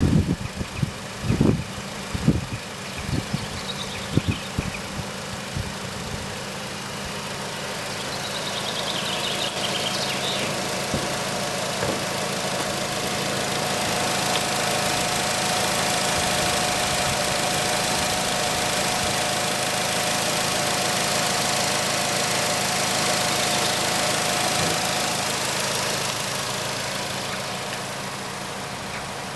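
Nissan Qashqai 2.0's four-cylinder engine idling steadily, heard through the open bonnet. It grows louder in the middle and fades again toward the end. A few sharp clicks come in the first few seconds.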